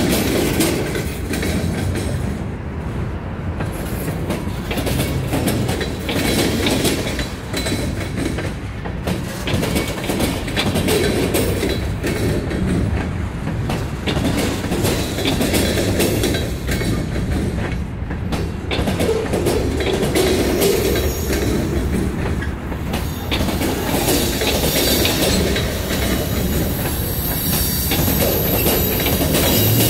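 Freight cars rolling past close by: steel wheels clicking and clattering over rail joints in a steady run, with the wheels squealing thinly at times.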